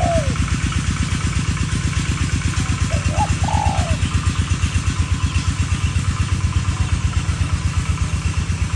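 A steady low throb, about eight beats a second, like a small engine idling, with spotted doves cooing over it: a call at the start and another about three seconds in.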